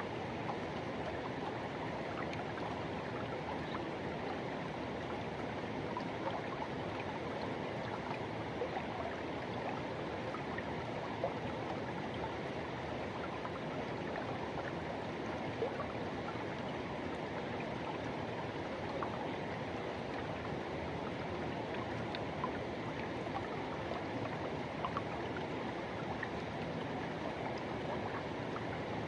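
River water rushing steadily over rocks, a continuous splashing flow with small splashes now and then.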